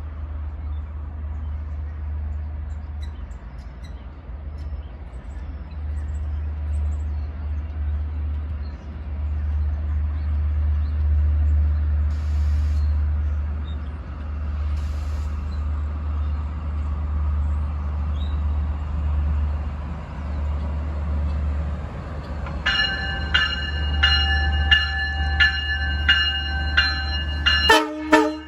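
Low steady rumble, rising slightly in level. About 23 s in, a railroad grade-crossing bell starts ringing, striking a little under twice a second. A sudden loud clatter comes just before the end.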